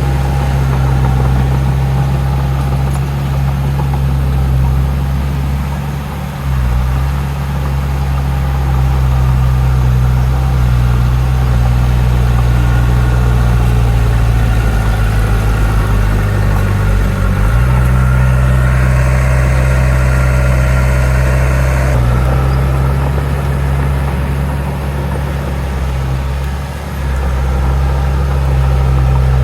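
Heavy diesel engine of earthmoving machinery running steadily, its pitch shifting about six seconds in and again past the middle. A higher, brighter whine joins for about four seconds after the pitch change.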